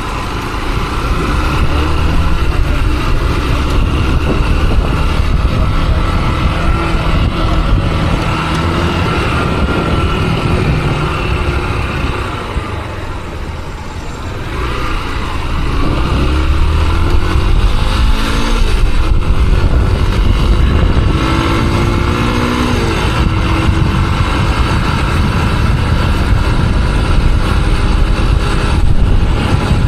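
Motorcycle engine running under way, with steady wind and road noise. The engine eases off a little before halfway, then revs up again through the gears.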